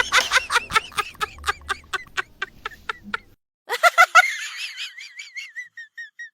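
Comedic laughter sound effects: a run of short laughs that slows and fades, cut off about three seconds in, then a higher, wavering cartoon-style snicker that slows and trails off.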